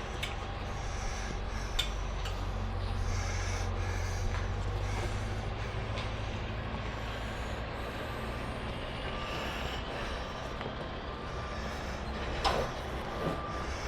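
A large vehicle's engine running with a steady low rumble, and a reversing beeper sounding in repeated beeps through the second half. A few sharp clicks stand out, the loudest near the end.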